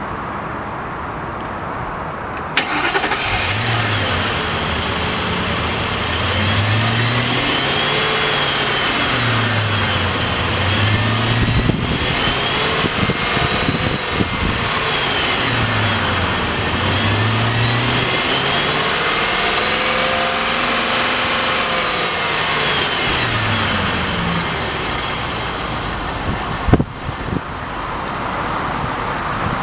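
2004 Ford Thunderbird's 3.9-litre V8 catching about two and a half seconds in, then revved over and over, its pitch climbing and falling back in repeated swells. A sharp knock comes near the end.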